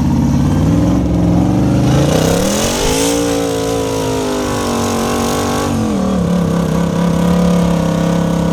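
Off-road rock-crawling rig's engine revving: the revs climb about two seconds in, hold high, then drop back to a steady lower speed about six seconds in.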